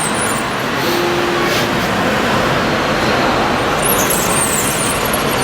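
A radio-controlled Komatsu D65PX model bulldozer working, giving a steady, dense running noise with no clear rhythm. A short steady tone sounds about a second in.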